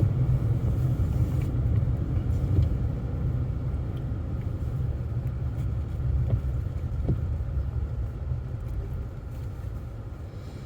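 Low, steady rumble of a car's engine and tyres heard from inside the cabin while driving, easing off and getting quieter over the second half.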